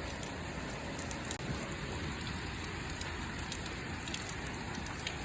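Heavy hurricane rain pouring down steadily, with scattered sharp ticks of drops striking surfaces.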